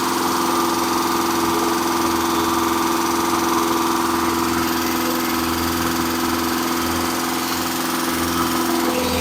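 Engine running steadily during its camshaft break-in, with a change in its note near the end.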